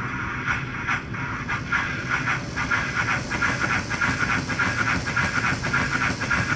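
American Flyer S gauge model steam locomotive running, its synchronized chuff unit giving a steady rhythm of hissing chuffs, a few a second, over the even whine of its motor and gears. The drivers are spinning with little traction.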